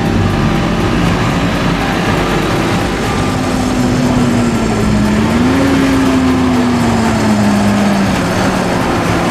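Diesel engine of heavy farm machinery running steadily. Its note dips, rises again about halfway through and then sinks toward the end.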